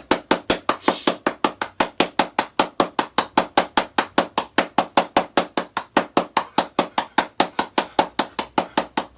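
A rapid, perfectly even series of sharp taps, about five a second, with no letup.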